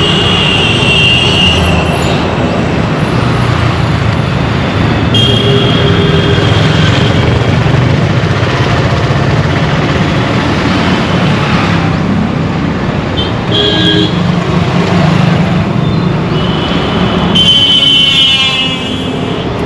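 Busy road traffic with a steady engine and road rumble, cut through by vehicle horns honking several times: at the start, about five seconds in, briefly near thirteen and a half seconds, and a longer honk near the end.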